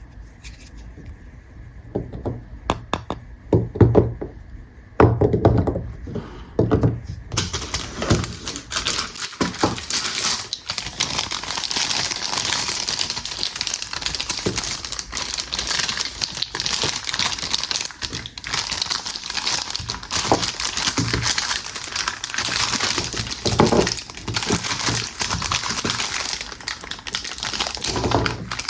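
Soap packaging being handled and unwrapped: a series of low knocks and taps, then from about seven seconds in a continuous crinkling of the wrapper.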